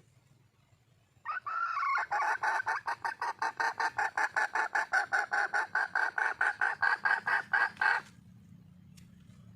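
Red junglefowl hen calling for a mate. A short rising note about a second in, then a fast even run of clucks, about six a second, that stops abruptly near the end.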